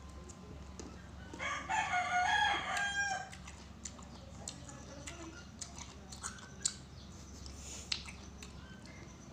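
A rooster crows once, a pitched call lasting nearly two seconds. Scattered faint clicks follow.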